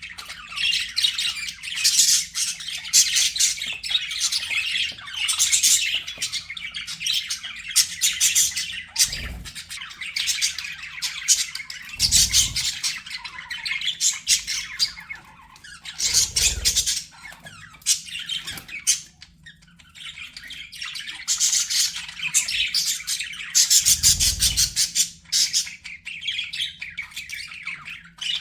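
Budgerigars chattering and squawking in a rapid, continuous warble, with a few dull low thumps scattered through.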